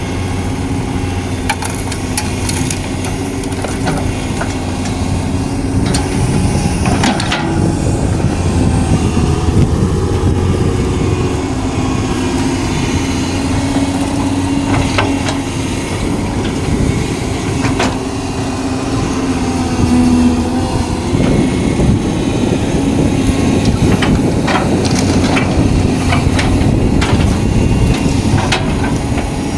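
Large hydraulic excavator's diesel engine running steadily, its pitch drifting up and down as it works, with scattered knocks and clanks.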